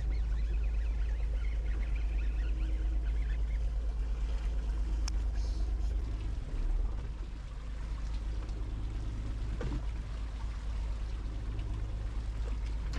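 A fishing boat's engine running with a steady low drone, its note changing and dropping about six seconds in, over a wash of water noise.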